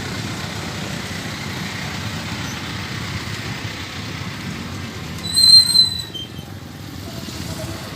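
Small motocross motorcycle engines running steadily in the background. A short, high whistle-like tone sounds a little past halfway and is the loudest thing heard.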